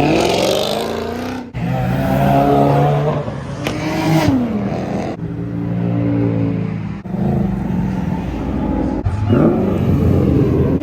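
Car engines revving and accelerating, their pitch climbing and dropping. The sound comes in several short stretches that cut abruptly from one to the next.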